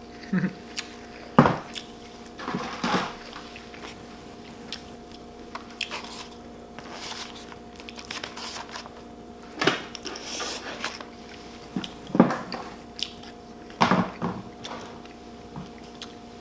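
Close-miked chewing and crunching of breakfast food, with irregular bites and mouth sounds at uneven intervals.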